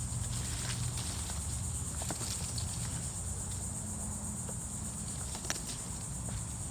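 Steady high-pitched insect chorus, with scattered snaps and rustles of brush and twigs as someone pushes through undergrowth on foot. There is a sharper snap about five and a half seconds in.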